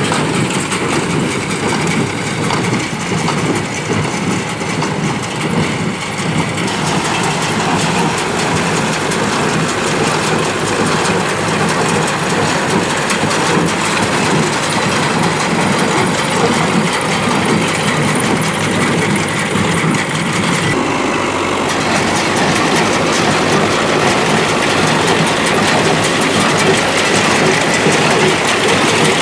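Ford 5000 tractor running steadily while driving a New Holland BC5060 small square baler, with the baler's rhythmic mechanical clatter over the engine.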